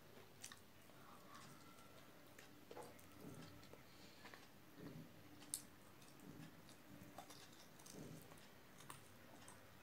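Faint chewing and soft mouth sounds of a person eating rice and chicken curry by hand, with small scattered clicks.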